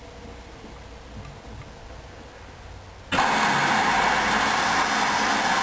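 Hoover washing machine mid-cycle: a faint low hum, then about three seconds in a loud, steady rushing noise switches on suddenly and holds level, with no rising whine of a spin; the machine has skipped its intermediate spin.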